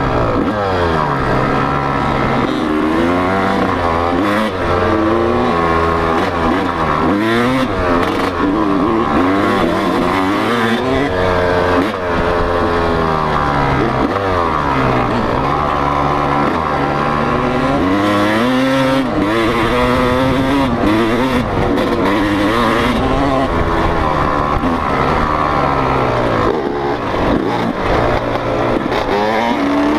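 Motocross bike engine revving hard, its pitch climbing and dropping back over and over through the gears as the bike is ridden.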